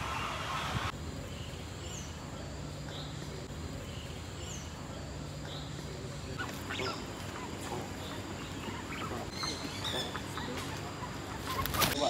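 Birds calling against outdoor ambience: a short high chirp repeats about every second and a half, with more varied calls in the second half. A sharp knock comes just before the end.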